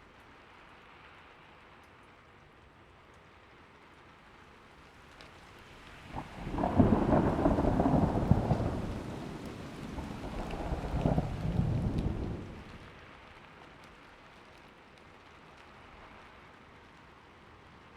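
Steady rain falling, with a rolling clap of thunder rising about a third of the way in, rumbling in two surges and dying away after several seconds.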